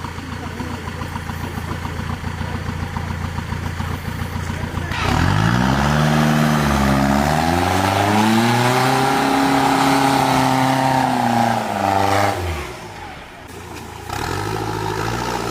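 Off-road 4x4's engine running low for about five seconds, then revving hard. The pitch climbs, wavers and is held high for several seconds, drops away around twelve seconds in, then starts climbing again near the end.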